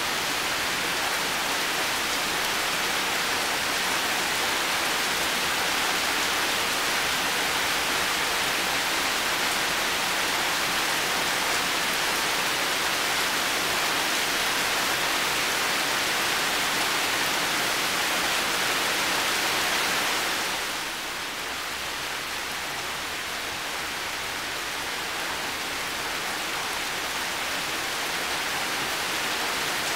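Heavy rain falling steadily, a dense even hiss of countless drops. About two-thirds of the way through it drops slightly quieter, then slowly builds back up.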